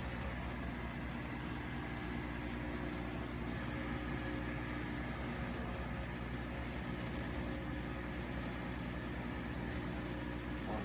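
Bosch washing machine running, a steady motor hum that holds the same pitch throughout.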